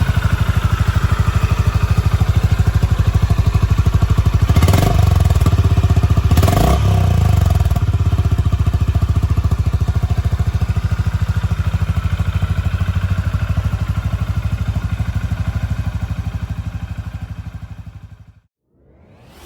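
Honda GB350's air-cooled single-cylinder engine idling with an even, pulsing beat, given two short throttle blips about five and six and a half seconds in. The sound fades out near the end.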